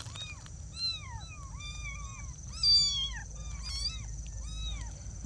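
Young kittens mewing: a string of about ten short, high-pitched calls one after another, the loudest a little under three seconds in.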